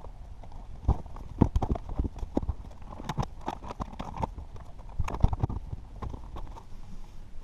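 Irregular hard knocks and clatters in several quick clusters, over a steady low rumble.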